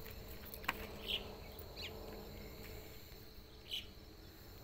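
Faint outdoor ambience: a steady high insect drone with a few short chirps, and a single sharp click a little under a second in.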